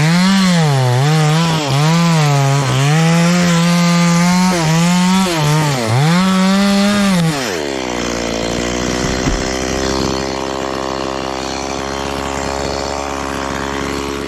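Chainsaw cutting aini (wild jack) wood at full throttle, its pitch dipping and recovering again and again as the chain bogs under load in the cut. About seven seconds in the engine falls back to a steady idle.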